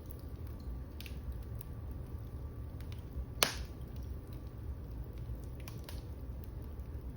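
Wood fire crackling in a fireplace: a low steady rumble of burning with scattered small crackles, and one loud sharp pop about three and a half seconds in.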